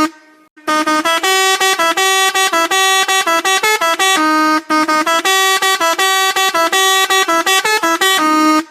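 Electronic beeping tune of short pitched notes, a melody looping about every four seconds, after a brief silence at the start.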